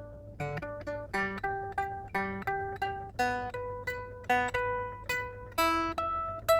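Epiphone SG electric guitar played clean, picking single notes in a slow melodic phrase, each note ringing on briefly before the next, about two or three a second, to check the freshly finished setup.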